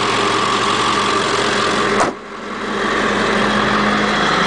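2000 Ford E450's 7.3-litre Power Stroke turbo diesel V8 idling steadily. About two seconds in there is a sharp knock, and the engine sound drops away briefly before building back up.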